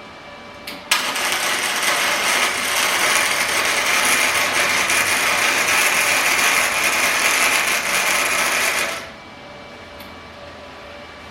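Primeweld MIG 160 welder laying a gasless flux-core bead: the arc strikes with a sharp crack about a second in, runs steadily for about eight seconds, then cuts off.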